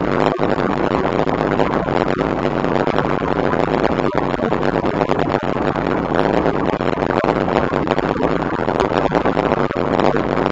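Shelby Cobra's V8 engine idling steadily while the car stands still.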